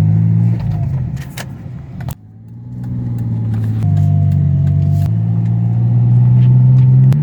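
Mazda 6 engine running steadily, its hum stepping in pitch a few times, now running smoothly with no misfire after four failed ignition coils were replaced. About two seconds in there is a sharp knock and the sound drops for a moment before coming back.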